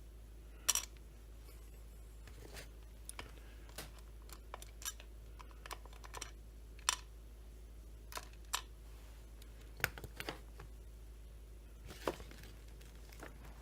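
Scattered light clicks and taps of small parts and tools being handled during crankcase assembly, the sharpest just under a second in, over a faint steady low hum.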